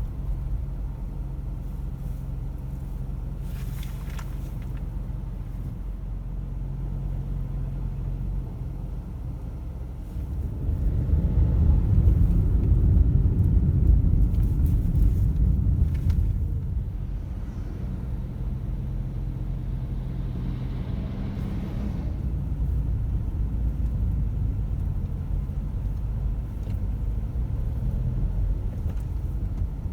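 Car driving, with steady engine hum and road noise; the rumble swells for several seconds about a third of the way in, then settles back.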